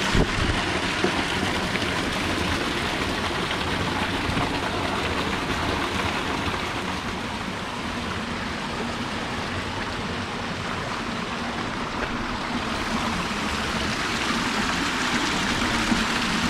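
Creek water rushing over rocks: a steady, even wash of water noise.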